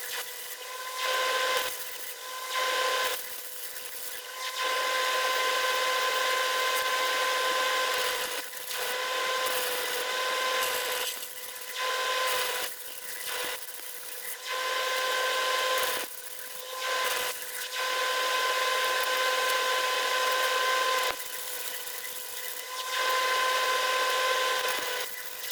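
Electric power tool working steel in repeated runs of a few seconds with short pauses between them: a steady whine under a rough, hissing grind.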